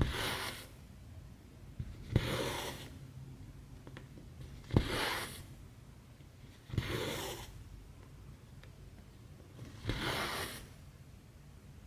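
Cross-stitch needle and embroidery floss working through stamped aida fabric: each stitch starts with a sharp tick as the needle goes through, then a rasping swish of about half a second as the thread is pulled taut. This happens five times, roughly every two to three seconds.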